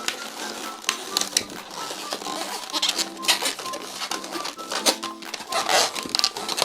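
Light background music, with scattered bursts of rubbing and squeaking from latex 260 twisting balloons being handled and twisted, busiest around three seconds in and again near the end.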